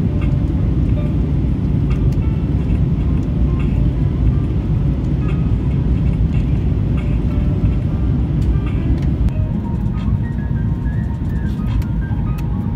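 Steady low roar of an airliner's cabin in flight: engine and airflow noise. Faint short pitched notes sound over it, more of them near the end.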